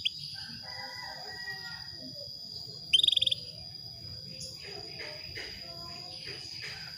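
Female canary giving one short, rapid pulsed call about three seconds in, the call a female in breeding condition uses to draw a male. Under it runs a steady high-pitched tone.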